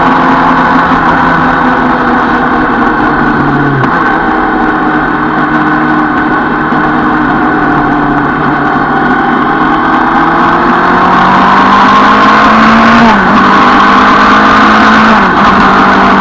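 Suzuki Bandit 650 N inline-four engine running under way. Its pitch climbs as it accelerates and drops sharply at each gear change: once about four seconds in and twice near the end.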